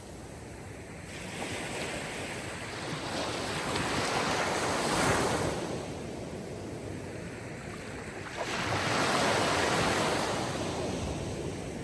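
Sea waves washing ashore: surf swelling and receding in two slow surges, the first peaking about five seconds in and the second starting with a sharper rise a little after eight seconds.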